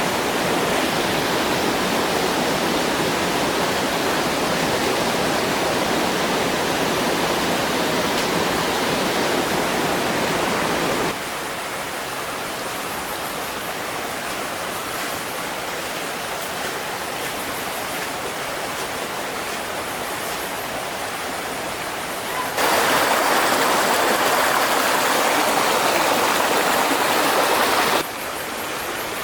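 Steady rushing of flowing water, like a stream. It drops abruptly in level about eleven seconds in, comes back louder a little past twenty-two seconds, and drops again near the end.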